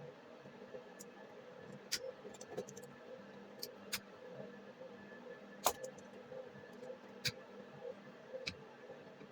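Scattered sharp clicks and light knocks, as of tools and parts being handled, over a steady faint hum. The loudest knock comes a little before six seconds in.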